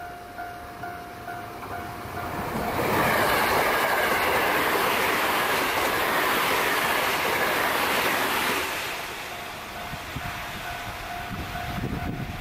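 JR West 207 series electric train passing close at speed: a loud rush of wheel and running noise builds at about two and a half seconds, holds for about six seconds, then fades. Before and after the pass, a level-crossing alarm rings in evenly repeated dings about twice a second. Near the end another approaching train adds rail-joint clatter.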